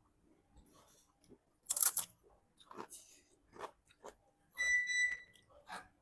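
A series of sharp clicks and knocks, the loudest about two seconds in, with a short, steady high-pitched beep lasting under a second near the end.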